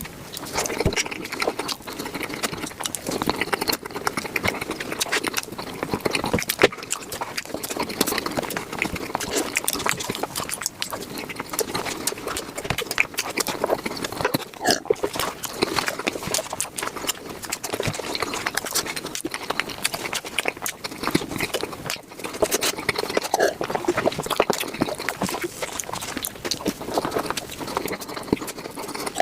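Close-miked eating sounds, chewing and wet mouth smacking, sped up to five times speed so they run together as a dense, rapid patter of clicks and smacks.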